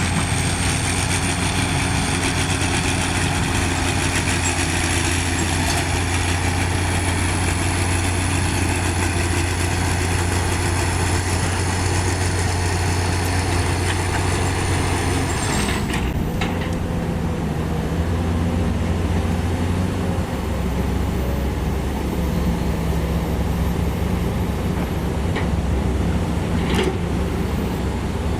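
Heavy earthmoving machinery's diesel engines running steadily, with a high whine that stops about halfway through, after which the engine note shifts; a few light clicks near the end.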